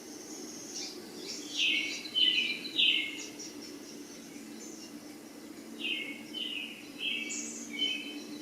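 A songbird chirping in two short bursts of rapid notes, a few seconds apart, over a steady low hum.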